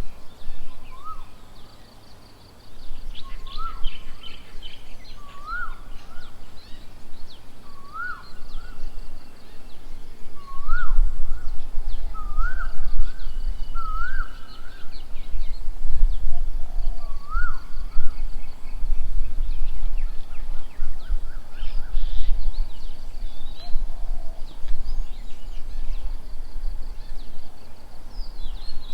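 Birds calling: one bird repeats a short rising call about every two seconds through the first half or more, over busy high chirping from other birds. A loud low rumble runs underneath from about a third of the way in.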